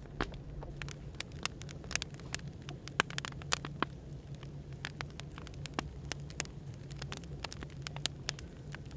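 Burning firewood crackling, with frequent irregular pops and snaps over a steady low hum of background noise.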